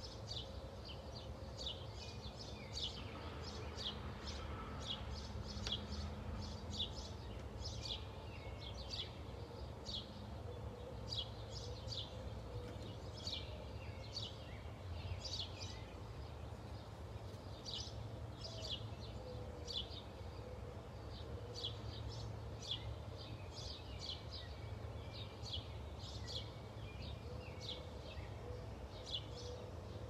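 A bird repeating short, high chirps about once or twice a second, over a steady low outdoor rumble.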